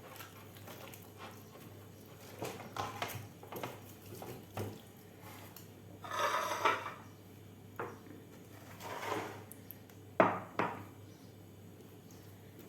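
Kitchen utensils and dishes clinking and scraping in scattered short knocks while a fish is coated with chermoula marinade. There is a longer scraping stretch about six seconds in and a sharp knock about ten seconds in.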